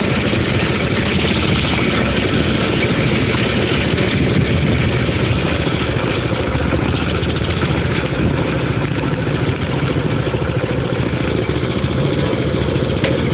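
Dirt bike engine idling steadily close by, a rapid, even putter.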